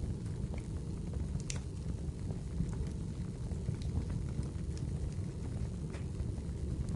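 Wood fire burning in a fireplace: a steady low rumble of flames with a few sharp, scattered crackles and pops of the burning wood.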